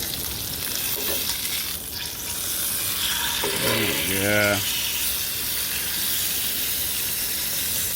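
Food sizzling and frying in a hot pan, a steady hiss with a brief spoken "yeah" about four seconds in.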